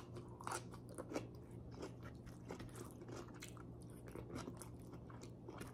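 A person chewing a mouthful of sautéed yardlong beans (sitaw) close to the microphone: a quick, irregular run of small, faint chewing clicks.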